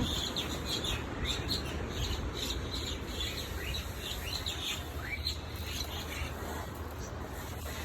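Birds chirping in many quick, short calls, thickest in the first few seconds, with one rising call about five seconds in: two birds squabbling.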